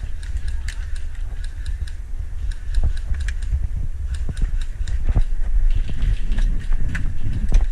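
Irregular light clicks and knocks, several a second, over a steady low rumble on the microphone.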